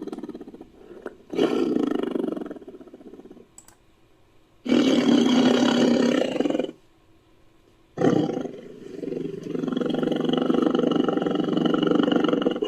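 Big-cat roars used as creature sound effects for a tiger-like beast. One roar fades out at the start, then three more follow with short gaps between them. The loudest comes about five seconds in, and a long one runs from about eight seconds in.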